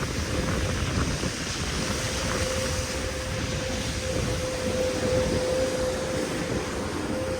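Wind buffeting the microphone in a snowstorm, a constant low rumble under a wide hiss, with a steady mid-pitched hum that grows clearer about two seconds in.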